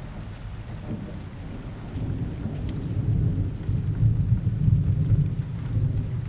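Steady rain with a low rumble of thunder that swells from about two seconds in and peaks near the middle.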